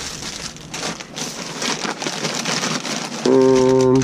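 A steady, even hiss like rain on a roof. About three seconds in, a loud steady pitched tone sounds for under a second.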